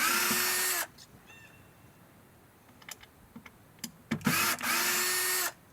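Cordless drill-driver whirring in two short runs about four seconds apart, each a quick blip followed by a steady run of under a second, as it backs something out of the wood.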